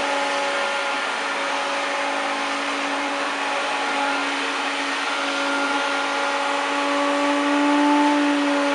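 1993 Hoover Turbopower 1000 U2814 vacuum cleaner running steadily, a motor whine over a rush of suction air, rising a little in pitch and level briefly near the end.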